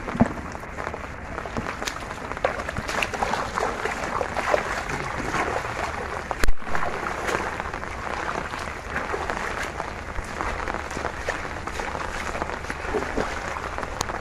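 Dense, crackling water noise of splashing and pattering, with one loud thump about six and a half seconds in.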